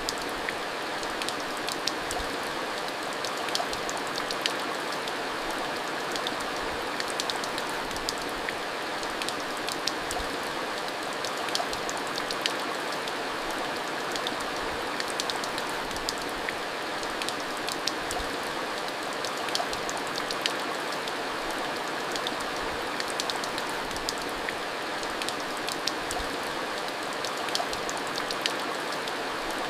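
Steady heavy rain falling, an even hiss with many close drops ticking sharply on a hard surface.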